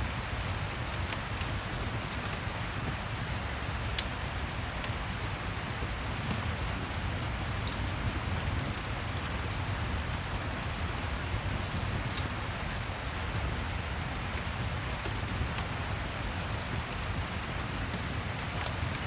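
Rain and crackling fireplace ambience: a steady rain hiss with a low rumble underneath and scattered sharp ticks and crackles.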